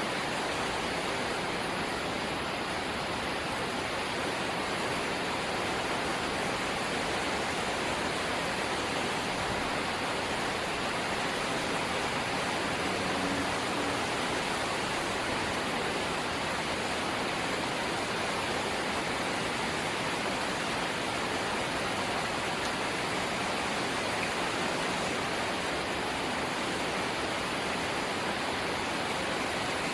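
Light rain falling steadily, an even hiss with no single drops or knocks standing out.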